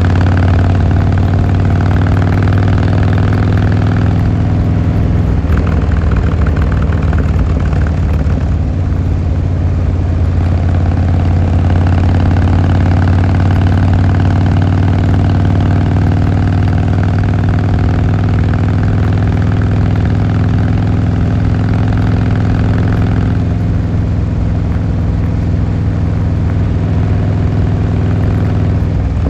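Harley-Davidson Fat Boy Lo's air-cooled V-twin engine and exhaust running steadily, with a low, even note that holds its pitch.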